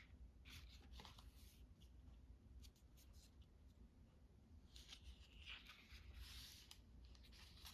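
Faint paper handling: soft rustles and small clicks of paper cut-outs being sorted and snipped, with a longer rustle a little past the middle.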